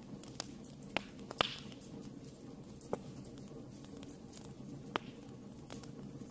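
Wood fire burning in a fireplace: a steady low rumble with scattered sharp crackles and pops, the loudest about a second and a half in and again around five seconds.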